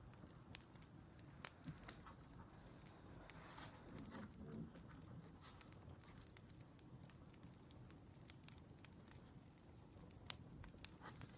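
Faint crackling of a wood fire: scattered sharp pops and snaps over a low steady rumble, with a soft rustle about four seconds in.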